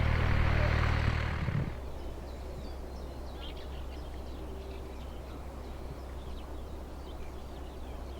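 Loud aircraft noise with a steady low drone cuts off abruptly less than two seconds in. A steady low hum remains, with birds chirping faintly.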